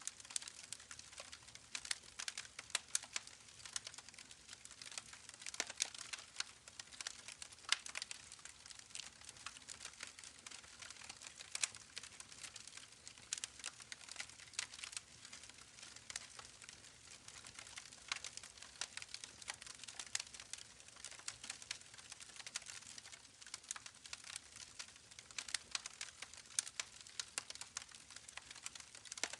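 Campfire crackling: dense, irregular pops and snaps over a faint hiss.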